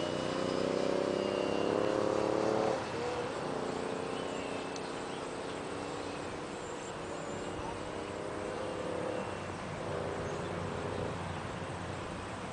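Radio-controlled F4U Corsair model airplane's motor in flight, its whine climbing slowly in pitch for the first few seconds and then dropping away abruptly. The note keeps coming and going more faintly as the plane flies its passes.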